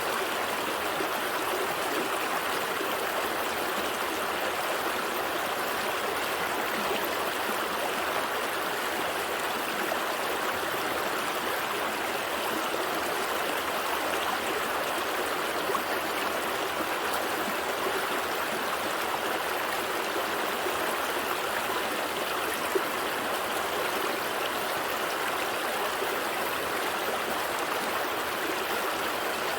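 A gentle stream flowing steadily over stones, a continuous babble and trickle of water.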